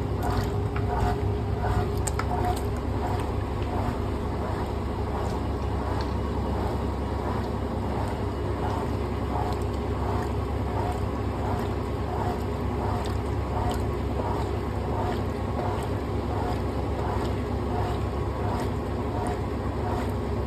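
A washing machine running: a steady low hum with a faint regular pulse about twice a second.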